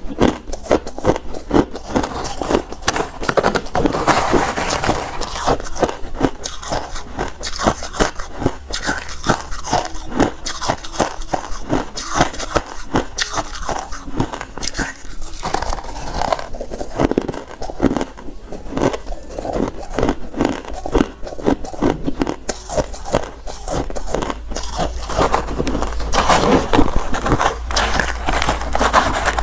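Refrozen crushed ice being bitten and chewed close to the microphone: loud, rapid, irregular crunching that keeps going throughout.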